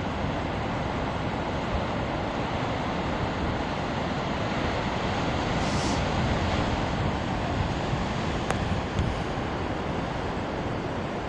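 Heavy ocean surf: big swells breaking and washing back on a rocky shore, a steady rush that builds a little about six seconds in, with wind rumbling on the microphone.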